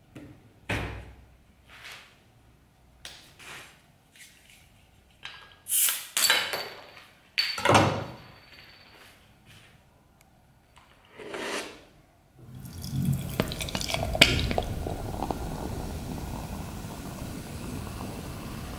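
A string of separate knocks and clinks as glass and metal containers are handled, some ringing briefly. About twelve seconds in, a steady stream of water starts running.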